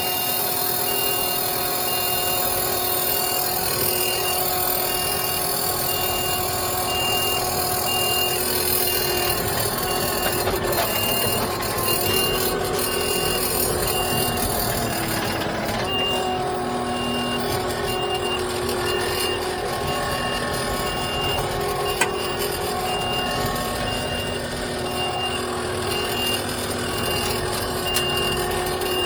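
A diesel machine's engine running steadily, with a high reversing alarm beeping evenly throughout as the machine backs up.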